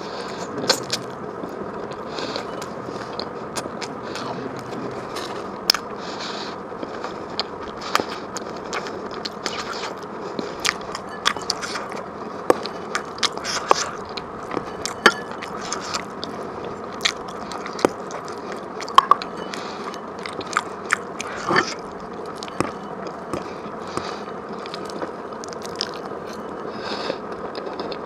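Close-miked eating: a person chewing food, with many irregular sharp clicks.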